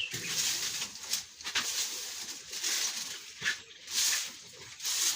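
Broom sweeping dry sawdust across a pig pen floor in repeated swishing strokes, roughly one a second, to soak up the wet.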